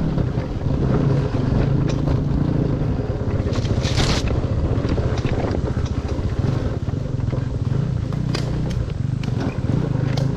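Dirt bike engine running steadily under way on a trail, with a few short sharp sounds over it, the loudest about four seconds in and another near eight seconds.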